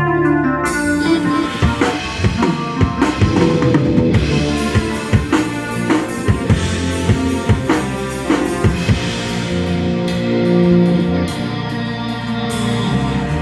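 Live band playing at a sound check, the drum kit to the fore with a run of quick snare and kick hits over held keyboard and bass chords; the drumming thins out after about nine seconds while the chords carry on.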